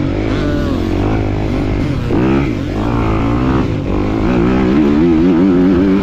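250-class motocross bike engine revving hard, its pitch climbing and dropping with the throttle, and wavering quickly in the last few seconds.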